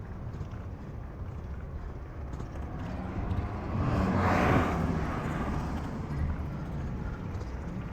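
City street traffic, with a car passing close by: its noise swells to a peak about four and a half seconds in and then fades.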